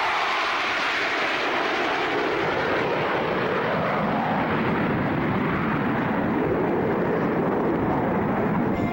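An airplane flying past at an airshow, a loud steady engine noise whose pitch slowly falls as it passes and moves away.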